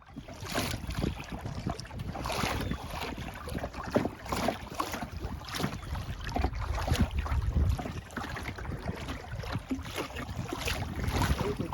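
Kayak paddle blades dipping and pulling through lake water in a steady rhythm, about one splashing stroke a second, over a low rumble of wind on the microphone.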